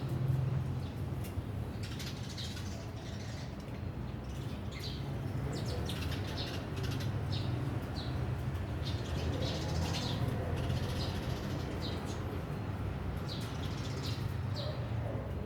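Birds gathered to feed: short high chirps every second or so, with wing flaps and small ticks, over a steady low hum.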